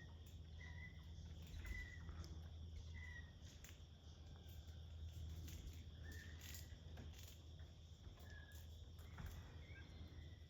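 Quiet outdoor ambience: a steady high insect drone, with short high chirps repeating about once a second at first and twice more later, over a low steady hum and a few faint clicks.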